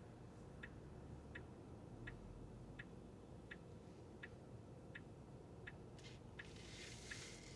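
Car turn-signal indicator ticking steadily, about one tick every 0.7 seconds, over a faint low cabin rumble. A short hiss comes about six seconds in.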